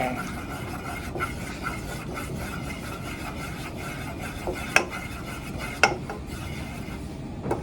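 A spoon stirring and scraping butter and cheese around the bottom of a cooking pot, with a couple of sharp clinks of the spoon against the pot about five and six seconds in.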